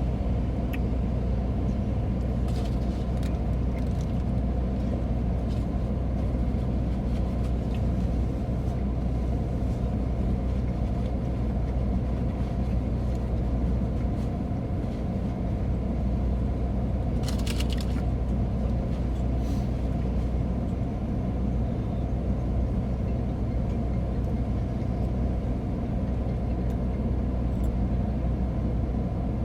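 Steady low hum of a parked car's engine idling, heard from inside the cabin. A brief burst of clicks or crinkling comes about two-thirds of the way through.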